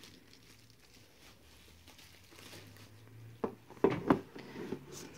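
Hands handling a cardboard gift box: faint rustling, then a few sharp taps and knocks of the box a little past halfway.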